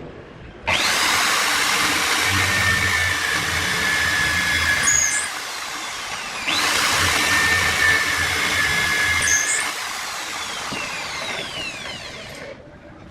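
Electric drill motor run twice. Each time it spins up with a rising whine, runs steadily for a few seconds, then winds down.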